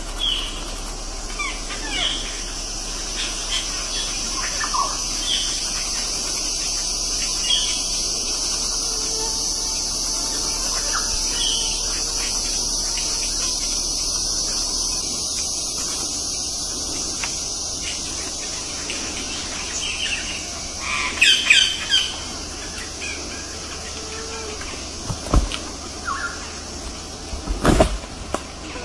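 Birds chirping, with scattered short calls over a steady high-pitched background hiss and a louder run of calls about three-quarters of the way through. A few dull thumps near the end.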